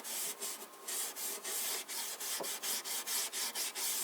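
Oil-soaked 00 steel wool being rubbed along the grain of a timber cabinet panel in repeated back-and-forth strokes, giving a scratchy, hissing scrub.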